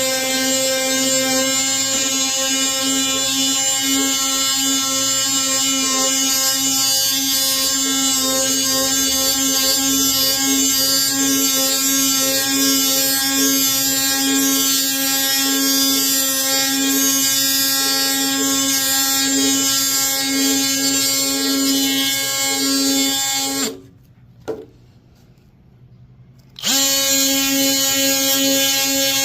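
DeWalt 20-volt brushless oscillating multi-tool fitted with a P120 sanding pad, buzzing steadily at a high pitch while sanding dried glue off wood. It stops for about three seconds near the end, then starts up again.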